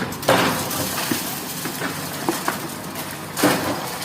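Excavator engine running as the machine breaks up a roof: two loud crashes, one just after the start and one near the end, with smaller cracks and clinks of breaking roof material between them.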